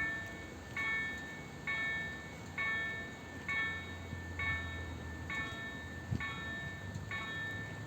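Railway level-crossing warning bell ringing, struck a little less than once a second, each ring fading before the next. A low rumble swells in the middle, with a single knock about six seconds in.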